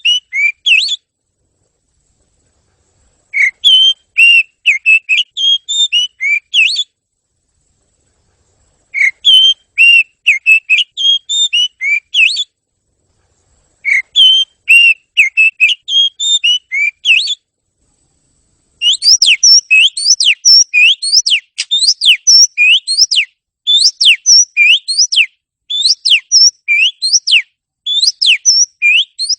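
Oriental magpie-robin (kacer) song: phrases of clear, varied whistled notes with complete silences of a second or two between them. About two-thirds of the way through comes a longer, faster run of repeated rising whistles.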